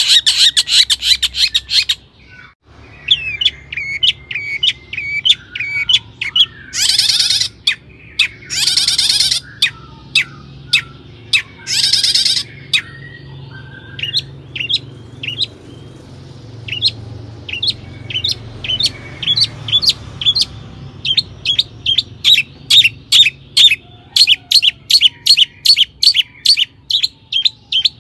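Long-tailed shrike (cendet) singing: a rapid chatter of sharp chips and short whistles, broken by three harsh, rasping bursts about a second long. Near the end it breaks into a fast run of loud, evenly repeated notes, about three to four a second.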